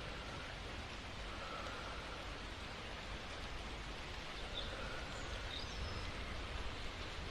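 Steady rain falling: an even hiss of drops, with a few faint high chirps a little after halfway.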